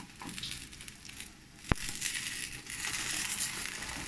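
Bread omelette frying in butter in a nonstick pan, a steady crackling sizzle that grows a little louder about halfway through. There is one sharp click just under two seconds in.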